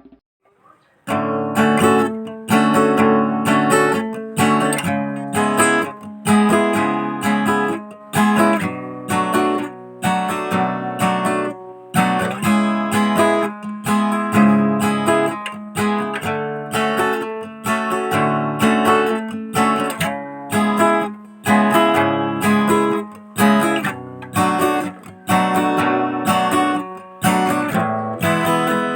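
Background music: acoustic guitar strummed in a steady rhythm, starting about a second in after a brief silence.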